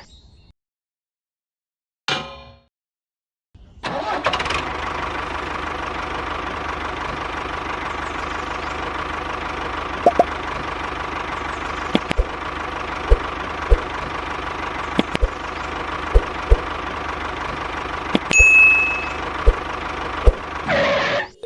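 Small engine: a brief burst about two seconds in, then it starts about four seconds in and runs steadily at a constant speed, with sharp knocks scattered through the second half.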